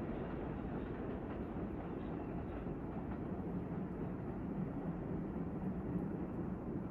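Staten Island Railway R44 train pulling away from the station, a steady low rumble of wheels and motors on the track.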